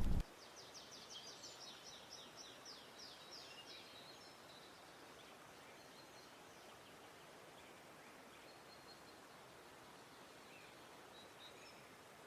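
A bird singing a rapid trill of high notes, about six a second, for roughly three seconds, then faint scattered bird chirps over a quiet steady hiss.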